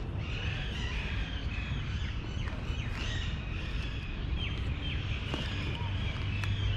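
Small birds chirping a few short, high, falling notes over a steady low rumble of outdoor background noise.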